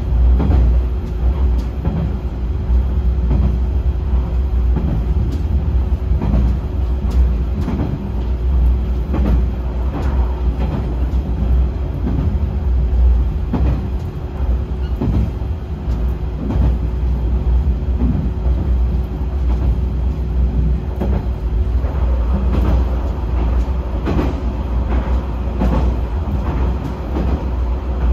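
Yamagata Railway YR-880 diesel railcar running along the line, heard from inside its driver's cab: a steady low rumble with a steady hum, and the wheels clicking and knocking over the rail joints at irregular intervals.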